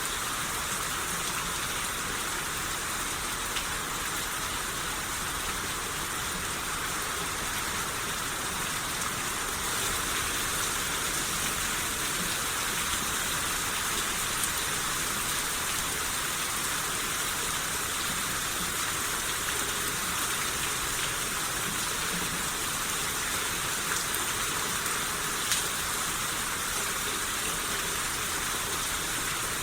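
Steady rain shower falling, an even hiss of rain with occasional sharper drop ticks.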